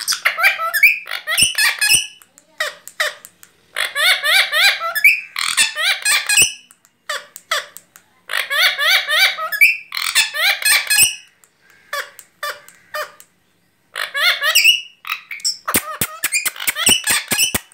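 Parrot calling in a run of high-pitched chattering bursts with short pauses between them, some of them fast warbling trills. A few sharp clicks come near the end.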